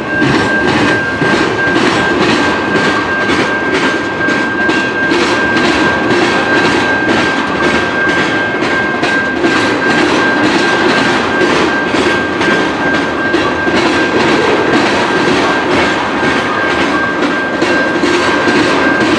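Railroad cars rolling past at steady speed, their wheels clicking over the track about twice a second over a continuous rumble, with a steady high-pitched whine running throughout.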